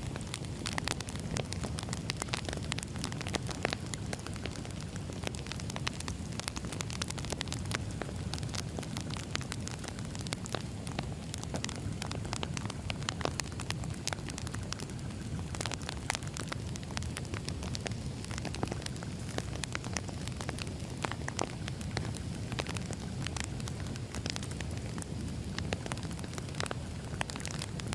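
Firewood burning, with constant irregular crackles and pops over a steady low rumble of the flames.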